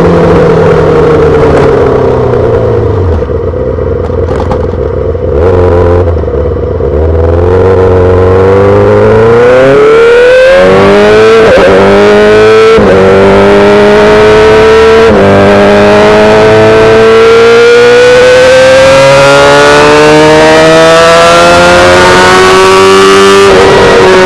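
2008 Yamaha R6's inline-four through a full SC-Project exhaust. The note sinks low for a few seconds, then the bike accelerates through the gears: several quick upshifts, each a rising note that drops suddenly. A long steady climb in revs follows, dropping off near the end.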